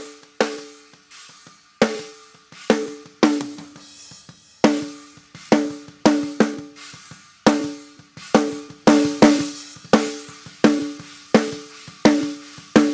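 Recorded snare drum close-mic track played back: a steady beat of snare hits, each ringing with a pitched drum tone, with hi-hat, cymbal and kick drum bleeding into the mic. The snare is being EQ'd, its low end cut.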